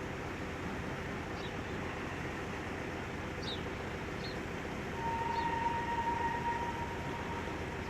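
Historic steam train running past at the level crossing: a steady rumble of the train rolling along the rails. About five seconds in, a steady single-pitched whistle sounds for about two seconds.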